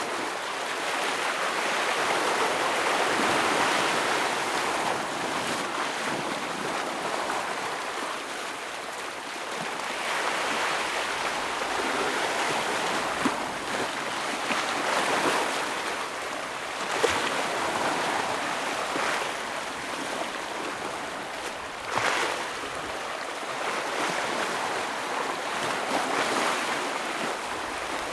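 Ocean waves breaking and washing against rocks, the surf swelling and ebbing every few seconds, with two brief sharp sounds in the middle.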